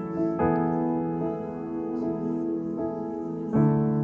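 Soft background worship music on keyboard or piano, sustained chords changing about half a second in and again near the end.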